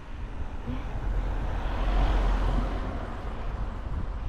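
Wind rumbling on the microphone during a bike ride, with a swell of road noise that rises and fades, peaking about two seconds in, as of a car passing.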